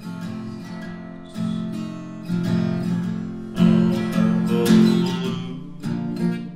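Acoustic guitar strumming chords in a slow instrumental passage, growing louder partway through.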